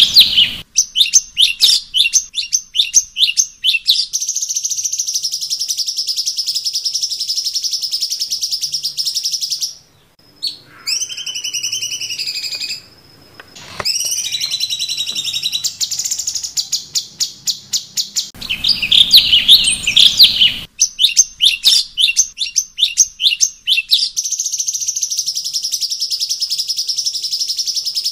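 A cucak cungkok singing a loud, varied song: bursts of rapid chattering notes running into long, fast high trills, with a few whistled notes that slide up and down in the middle. The same song sequence starts over about 18 seconds in.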